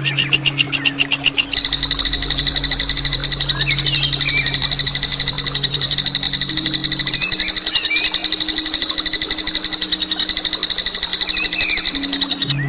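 A continuous, very rapid buzzing trill of evenly spaced pulses, held almost without a break, with a few faint bird chirps behind it and a low steady hum underneath.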